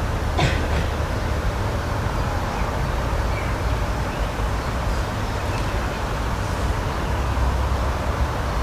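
Steady outdoor nature ambience: a constant rushing noise with a deep rumble, and a few faint short high chirps.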